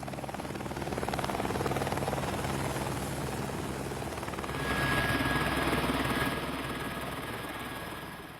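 A motor running steadily with a rapid, even throbbing beat, growing louder about five seconds in; a thin steady high tone joins it about then.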